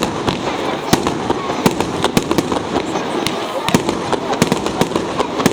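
Fireworks display: sharp, irregular bangs and crackles of exploding shells, two or three a second, over a continuous background noise.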